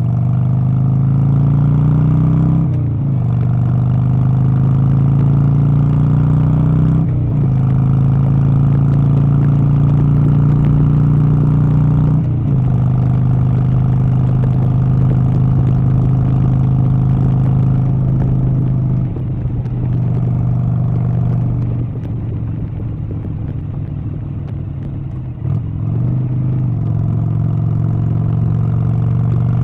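A vehicle engine accelerating under load, its pitch climbing and then dropping suddenly three times in the first dozen seconds as it shifts up through the gears, then running at a steady pitch with a few small dips.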